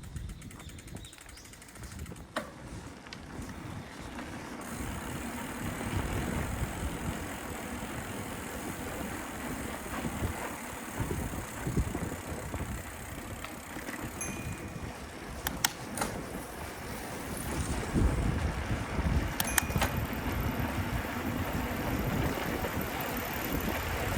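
A bicycle riding along a street: uneven wind and tyre rumble on the microphone that grows louder over the first few seconds as the bike gets going, with a few sharp clicks and rattles from the bike.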